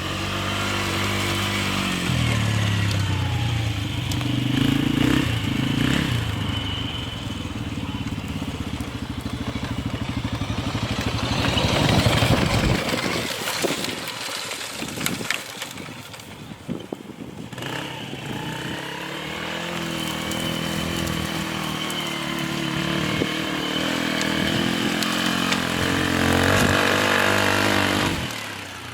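1990 Polaris quad's engine being ridden, its pitch rising and falling with the throttle. Around the middle the engine note drops away for a few seconds, with a few scattered clicks, before coming back strongly.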